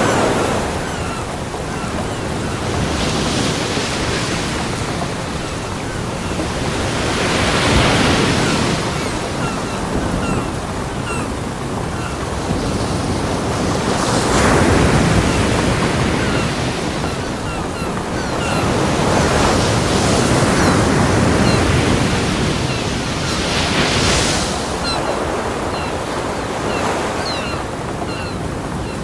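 Ocean surf breaking on a beach: a continuous wash of water that swells into louder breakers every five seconds or so and then falls back.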